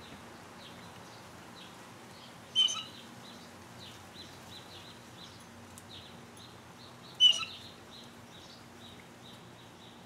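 Birds calling at the feeders: a continual patter of small high chirps, with two short, much louder calls, one about two and a half seconds in and one about seven seconds in.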